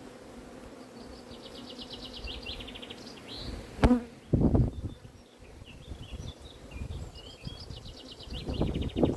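Honeybees buzzing steadily around an open hive, with a sharp click about four seconds in and low thumps just after it and again near the end.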